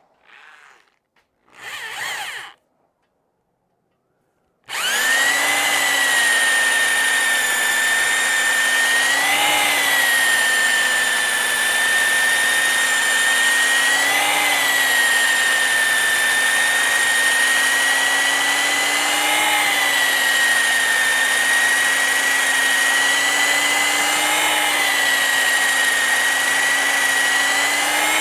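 Electric drill spinning a stone cylinder hone in a Yamaha 250 outboard cylinder bore. It starts up about five seconds in and runs at steady speed with a whine that lifts slightly about every five seconds as the hone works.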